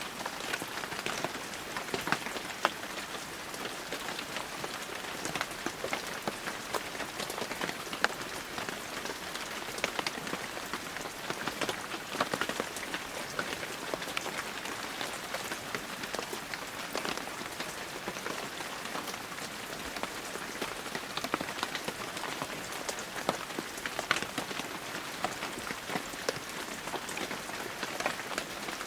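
Heavy rain falling steadily, a dense hiss of rain with many close, sharp drop impacts on surfaces.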